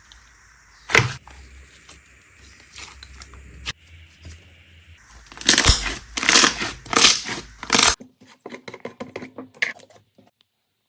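Slime being squeezed and poked close up: a sharp pop about a second in, then a run of loud crackling squishes, then a quick patter of small pops and clicks that stops suddenly near the end.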